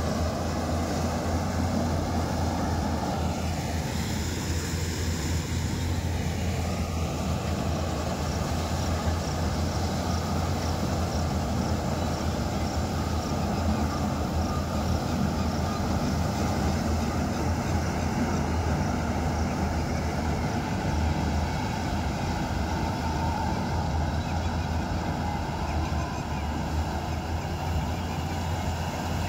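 Maize harvester's engine running steadily with a deep drone. A higher whine dips and climbs back in the first few seconds.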